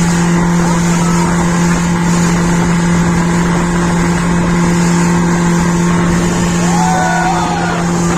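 A boat's motor running steadily at an even speed with a constant low hum, over a rushing noise. Faint voices rise over it near the end.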